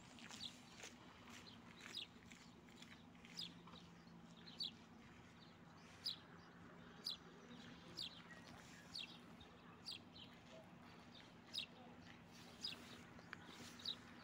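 A small bird calling: a short, high note falling in pitch, repeated about once a second, faint over a steady low hum.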